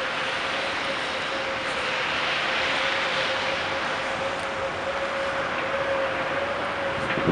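Steady vehicle noise on a snowy street: a continuous whine holding one pitch over an even hiss.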